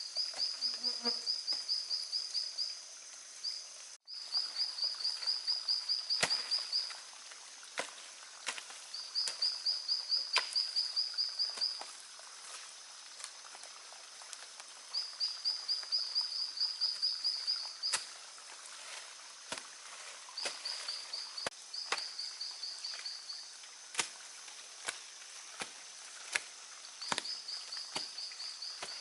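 Forest insects chirping in high, fast-pulsed trills, each lasting two to three seconds and repeating every few seconds, over a steady high buzz. Sharp clicks and knocks sound here and there, more of them in the second half.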